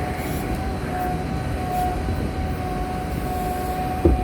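Bucket truck's 6.4 diesel engine running with its boom hydraulics, a steady whine over a low rumble. A short thump comes near the end.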